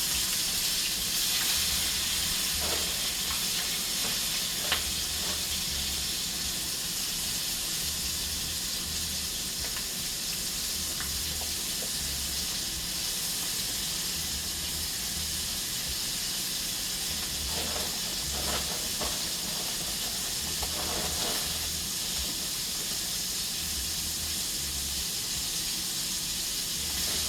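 Hot grease in a skillet sizzling steadily as food fries, with a few faint clicks.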